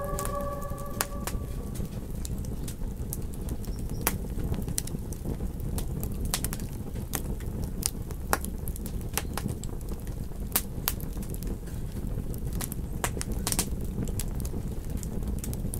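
Campfire crackling: irregular sharp pops and snaps over a steady low hiss of burning wood. A wolf howl fades out in the first second or so.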